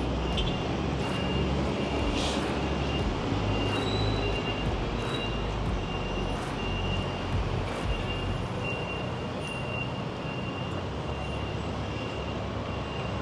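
City street traffic: a low rumble of passing vehicles that eases off about two thirds of the way in. A steady series of short high beeps repeats over it.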